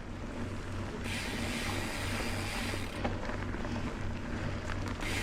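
A mountain bike rolling along a dirt trail: steady tyre and riding noise with a low pulsing rumble about three times a second, and a hiss that rises between about one and three seconds in.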